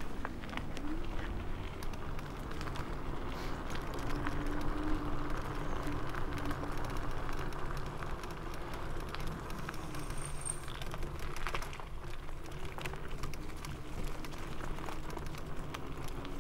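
KuKirin G2 Max e-scooter riding over a forest track: the 1000 W electric motor whines at a steady pitch, over tyre and wind rumble and frequent rattling knocks as the scooter goes over bumps.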